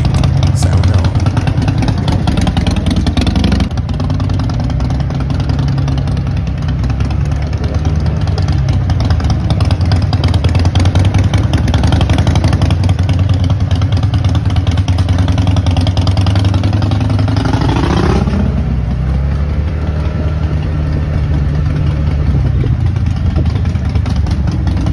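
Harley-Davidson Forty-Eight's 1200 cc air-cooled V-twin running steadily as the bike is ridden off at low speed. There is one quick rise in revs about three quarters of the way through, then it settles back.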